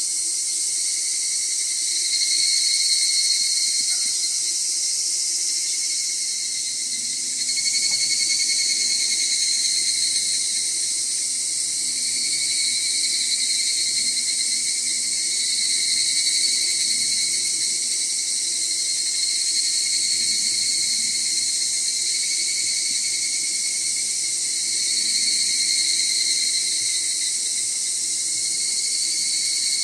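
A dense summer chorus of insects shrilling steadily in layered high tones, with several pitches held at once. It swells and eases every few seconds.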